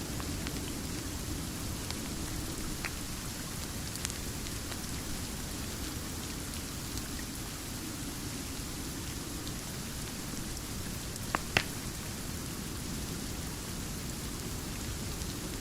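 Steady rain ambience mixed with a crackling wood fire, whose sharp pops stand out a few times, loudest as a quick pair of pops about eleven seconds in.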